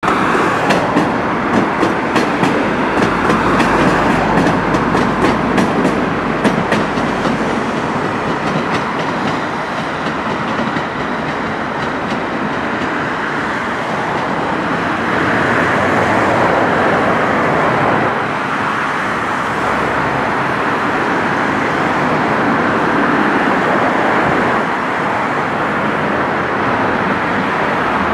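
Stadler diesel multiple unit running past, its wheels clicking rapidly over rail joints for the first several seconds, then a steady running noise that swells a little midway.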